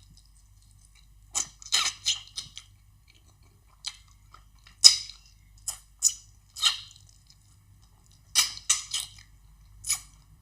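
Close-miked eating sounds: chewing and mouth smacking of fufu and egusi soup, in several short runs of sharp clicks with pauses between, over a faint steady hum.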